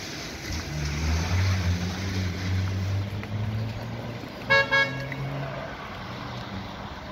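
A motor vehicle's engine running as it passes close by, with two quick car-horn beeps about four and a half seconds in.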